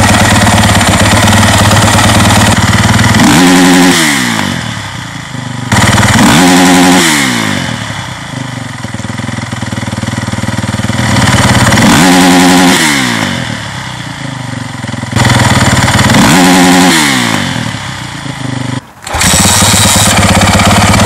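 Honda CRF motocross bike's single-cylinder four-stroke engine through a LeoVince exhaust, revved hard and held high, then let fall back about four times, the pitch dropping each time.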